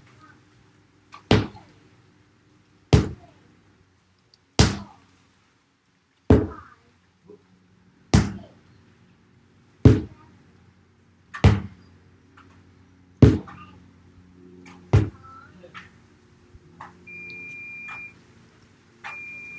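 Sledgehammer striking a tyre: nine heavy blows, evenly spaced a little under two seconds apart. Near the end, a high electronic beep sounds twice, each beep about a second long.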